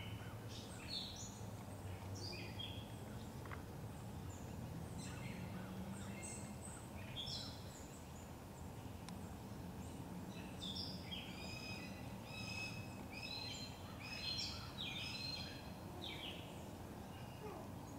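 Birds calling in short, high chirping notes, scattered at first and then in a busy run of quick notes from about ten to sixteen seconds in, over a steady low background rumble.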